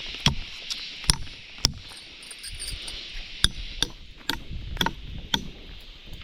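About eight sharp blows of a tool striking something hard, irregularly spaced, like hammering or chopping, over a steady high drone of insects.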